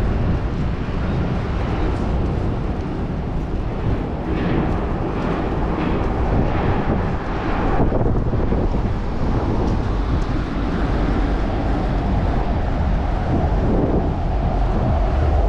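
Wind rushing over the microphone of a moving bicycle, a steady low rumble, with city traffic running underneath.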